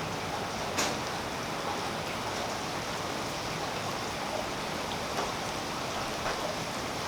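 Steady rain falling on a tree, a continuous even hiss with scattered drops ticking, one a little louder about a second in.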